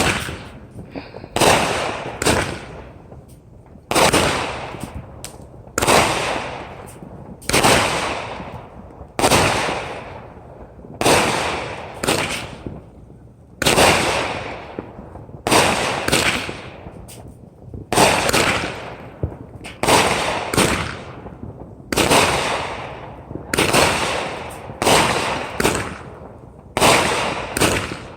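A multi-shot consumer firework cake (a 96-shot cake) firing shot after shot, a sharp bang every one to two seconds, each one fading away over about a second.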